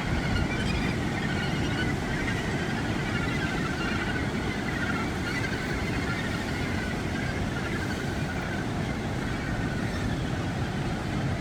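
Wind rumbling on the microphone, with the massed calling of a gannet colony in the background that fades after about eight seconds.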